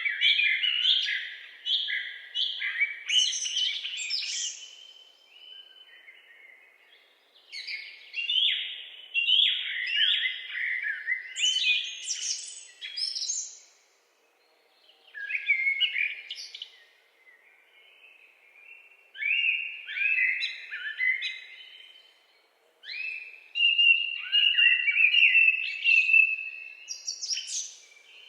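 Woodland songbirds singing: quick, varied chirping and warbling phrases a few seconds long, broken by short pauses of a second or two.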